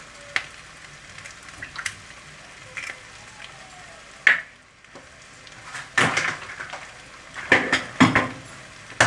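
Eggs being scrambled in a frying pan with onion and garlic: a steady light sizzle, with a utensil knocking and scraping against the pan several times, the loudest knocks about four, six and eight seconds in.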